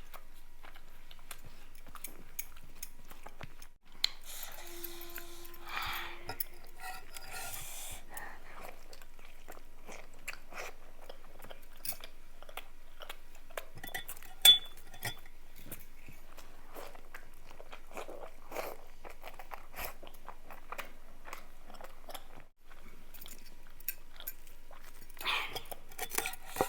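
Close-miked eating: a person chewing and biting food, with wet mouth clicks and crunches spread unevenly throughout and one sharper click about midway.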